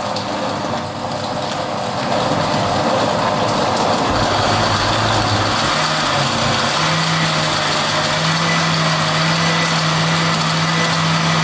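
Electric blender motor running steadily, its low hum stepping up in pitch about six or seven seconds in.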